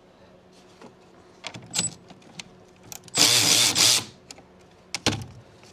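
Metal hand tools clinking at a car battery's terminals, with a loud metallic rattle lasting about a second, roughly three seconds in, and a few more sharp clicks near the end.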